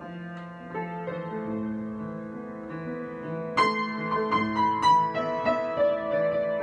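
Solo piano improvisation: held low chords under a melody of single struck notes, which grows louder and brighter about halfway through with several accented notes.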